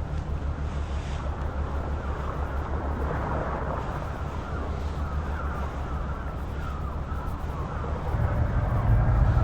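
Truck engine running with a steady low hum, growing louder about eight seconds in.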